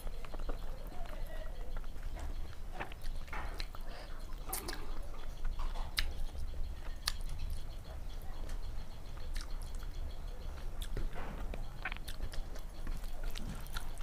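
Close-miked eating by hand: wet chewing and lip smacks, and sticky squelches of fingers mixing rice and fish curry on a steel plate. The sounds come as scattered short sharp clicks over a steady low hum.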